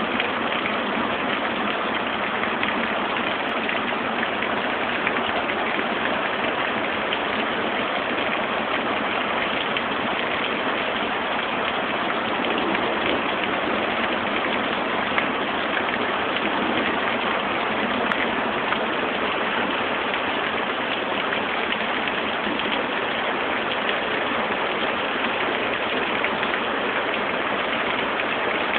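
Heavy rain falling in a steady, even hiss during a thunderstorm, heard through a phone's microphone with no low end; the thunder does not come through.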